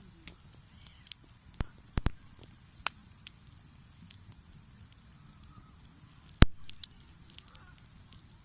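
Campfire crackling: burning wood gives off sharp, irregular pops and snaps, the loudest about six and a half seconds in.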